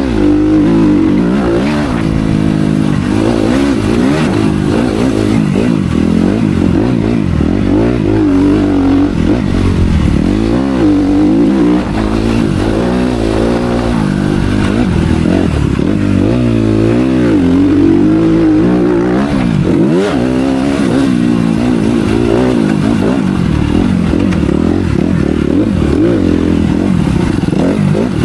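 Motocross bike engine revving hard and dropping back over and over as it is ridden around a dirt track. Its pitch climbs and falls every second or two, with brief dips between gears and off the throttle.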